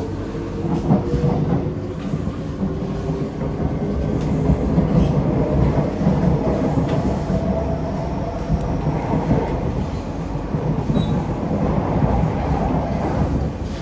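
Kawasaki–CRRC Sifang C151A metro train running between stations, heard inside the carriage: a steady rumble of wheels on track, with a traction motor whine that rises in pitch in the first couple of seconds and again in the middle.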